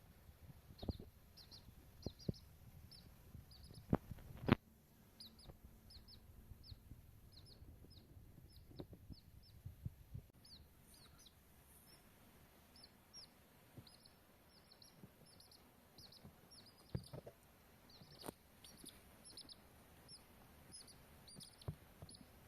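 Baby chicks peeping: a steady run of short, high, falling peeps, one or two a second. A few sharp knocks sound through it, the loudest two about four seconds in.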